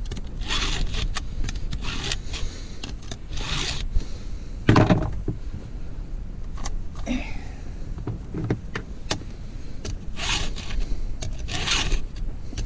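Hand file rasping across chainsaw chain cutters in short scraping strokes, a second or two apart, with a heavier, deeper stroke or knock about five seconds in.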